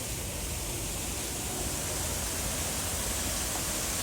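Waterfall's rushing water: a steady, even hiss with no change.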